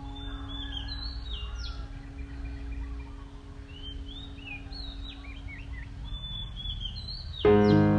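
Small birds chirping repeatedly in quick, high notes over a low rumble of background noise. Piano music starts abruptly near the end.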